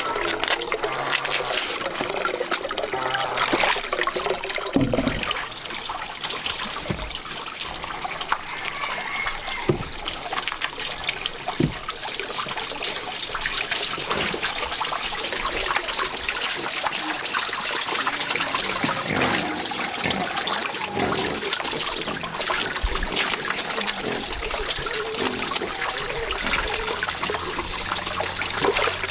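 Water running and trickling steadily, with a few soft knocks.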